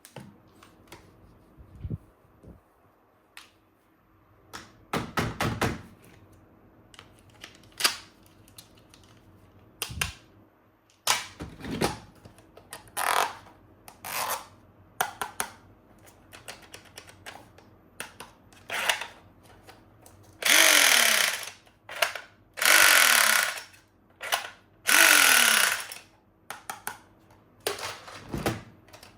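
Plastic toy guns being handled, with scattered clicks and clatter. Past the middle come three loud rattling bursts of about a second each, each ending in a short falling tone.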